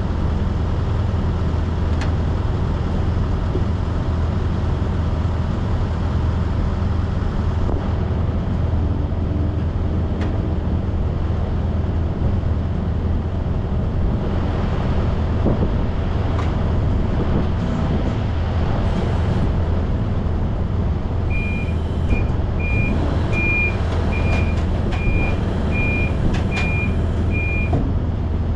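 Semi truck's engine and road noise in a steady low drone. Near the end comes a run of about nine short, high electronic beeps at one pitch over some six seconds.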